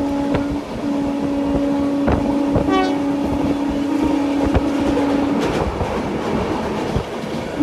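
Sampoorna Kranti Express passenger train running on the track: wheels clicking over rail joints at irregular intervals under a steady droning tone, which breaks off briefly near the start and stops about two-thirds through, leaving the rumble and clicks.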